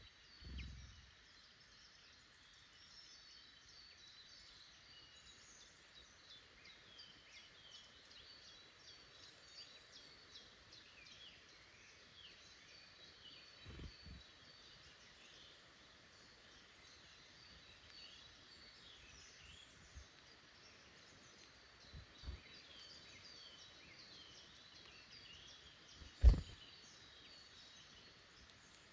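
Woodland songbirds calling and singing in many overlapping short, high chirps. A few dull low thumps break in, the loudest near the end.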